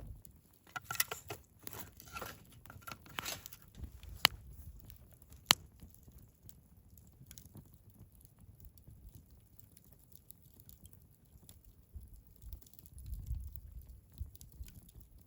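Wood fire crackling in a Picogrill 398 fire pit: a run of crackles in the first few seconds, then two sharp pops, followed by sparse small ticks. A low rumble rises near the end.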